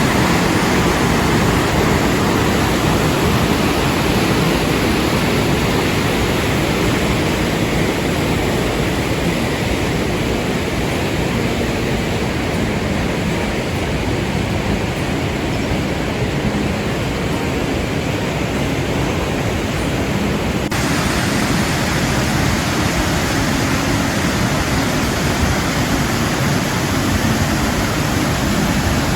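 Loud, steady rush of a fast-flowing creek or river in high spring water. The sound changes abruptly about two-thirds of the way through, becoming a slightly different rush.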